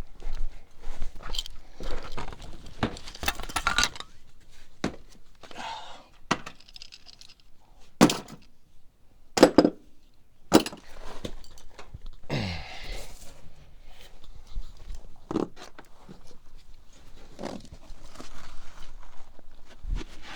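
Irregular knocks, clinks and shuffling as a man crawls under a jacked-up pickup truck and handles his tools, with a few sharper knocks about eight to eleven seconds in.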